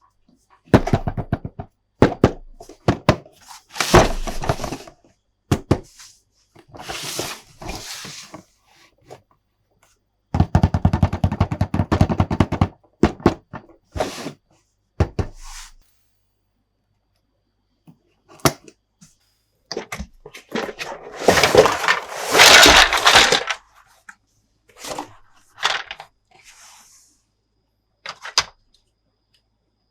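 Plastic toy playset parts and packaging being handled: scattered clicks, snaps and knocks. A long run of rapid clicks comes about ten seconds in, and a louder rustling burst about twenty-one seconds in.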